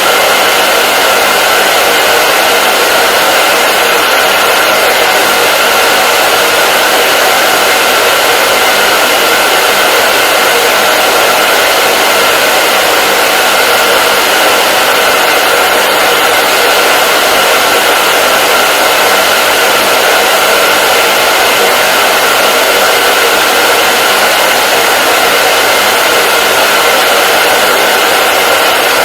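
Hair dryer running steadily: a loud, even blowing hiss with a faint steady whine in it, unchanging throughout.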